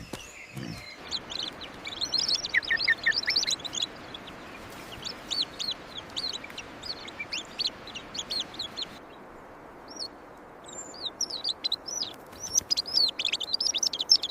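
Small birds chirping: runs of short, quick, high chirps over a steady background hiss, with a short lull about two-thirds of the way through.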